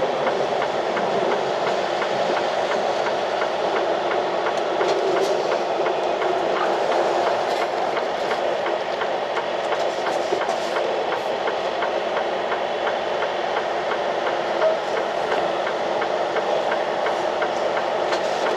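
Semi-truck's diesel engine running under way during slow manoeuvring, a steady noise with faint repeated ticking over it.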